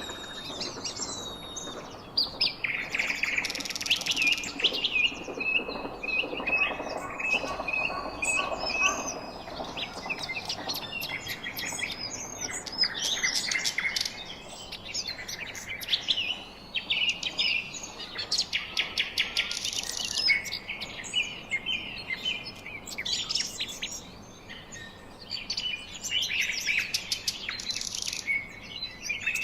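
Several birds chirping and singing at once, a dense chorus of overlapping high chirps, rapid trills and short whistles.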